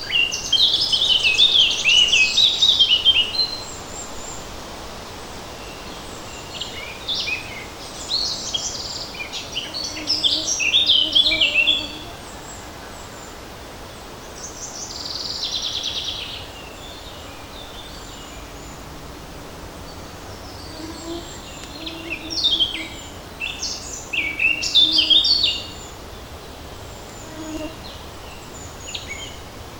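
Songbirds singing in bursts of quick, high twittering phrases a few seconds apart, one of them a falling trill, over a steady light breeze in the trees.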